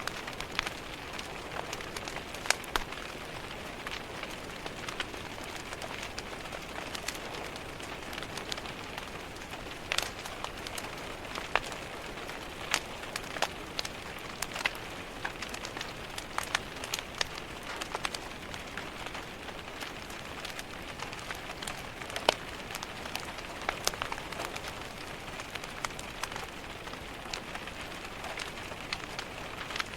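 Steady rain patter mixed with the crackle of a wood fire: an even wash of noise with frequent sharp pops and ticks at irregular intervals.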